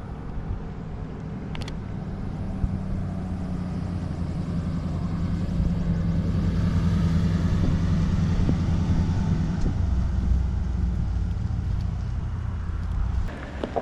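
Motor vehicle engine running close by: a steady low drone that grows louder toward the middle, then eases off and stops near the end.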